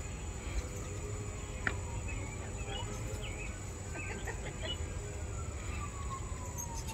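Short, scattered bird chirps over steady outdoor background noise, with a faint tone sliding slowly down in pitch through the second half.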